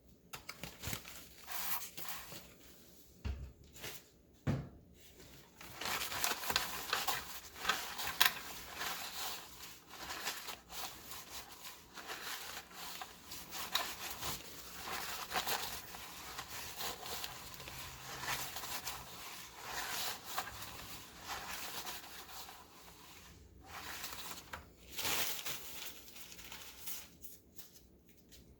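Irregular rubbing and wiping, cleaning out the oven's control panel area, in long scrubbing stretches. Two low knocks come a few seconds in.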